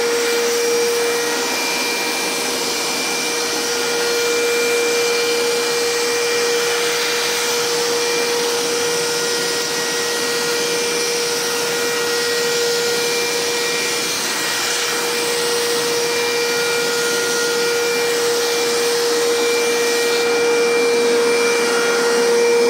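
Kärcher WD 3 wet/dry vacuum cleaner's motor running steadily at one even pitch. It is working properly after the debris that clogged it, from being used without a filter, was cleared out.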